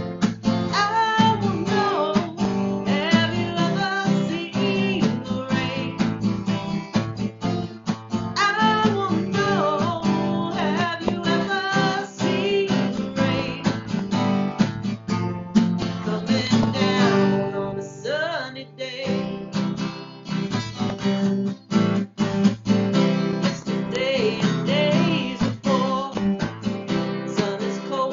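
Acoustic guitar strumming chords in a steady rhythm, with a melody line carried over the top.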